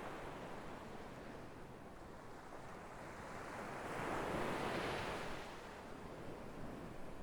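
Sea waves washing onto a shore, one wave swelling and breaking about four seconds in before ebbing away.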